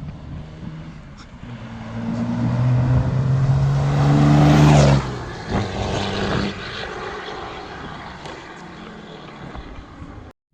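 Dodge second-gen 24-valve Cummins 5.9 inline-six turbo diesel through a 4-inch straight-piped exhaust, accelerating hard so the exhaust note builds and rises, then letting off sharply about five seconds in. A short second burst follows near six seconds before the sound fades away.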